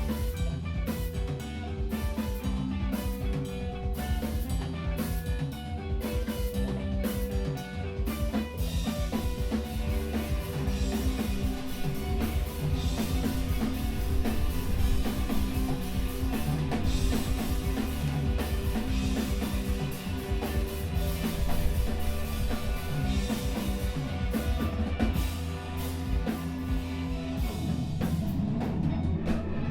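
Live emo/screamo rock band playing: drum kit, bass and guitars. About eight seconds in the band gets fuller, with cymbals washing over the drums.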